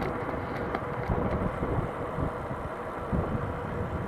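Strong headwind buffeting the microphone of a moving mountain bike, a gusty low rumble with a faint steady hum and a few light clicks from the ride.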